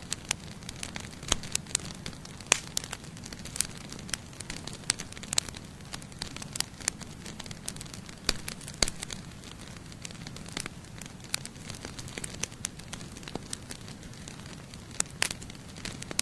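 Campfire burning, wood crackling and popping in sharp irregular snaps over a low steady rush of flame.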